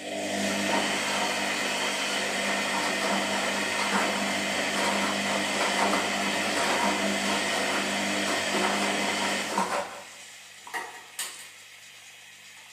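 Washing machine running with a loud whirring, churning motor sound that cuts off abruptly after about ten seconds. Two short knocks follow about a second later.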